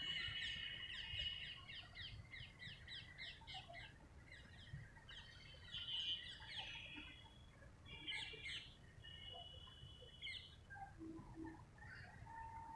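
Birds chirping and calling, with a quick run of short notes in the first few seconds and scattered calls after, over a faint low rumble.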